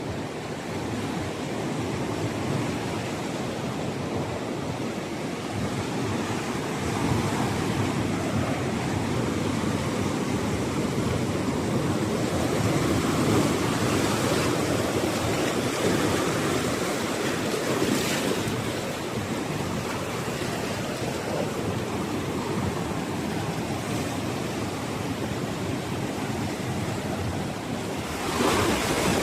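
Ocean surf breaking and washing up a beach, swelling and easing, with wind on the microphone.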